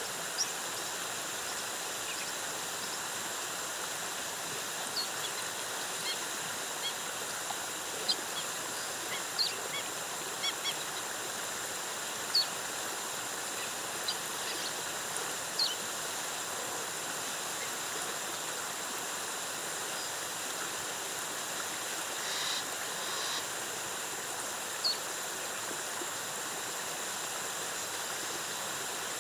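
Waterfall rushing steadily, with short, high bird chirps scattered over it and a brief, fuller bird call about two-thirds of the way in.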